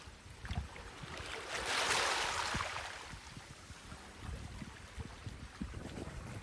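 A rush of water noise that swells to its loudest about two seconds in and fades away, over a low wind rumble on the microphone.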